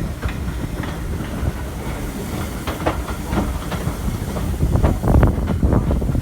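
Steam-hauled train running along the track: a steady low rumble with irregular clicks and knocks from the wheels on the rails, getting louder near the end.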